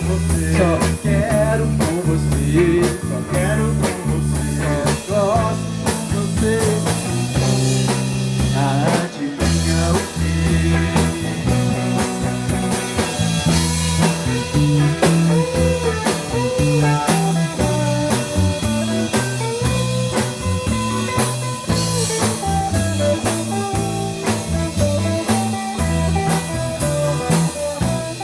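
Pop-rock band playing an instrumental passage with no vocals: a drum kit keeps a steady beat under a moving bass line and a melodic lead with bending notes.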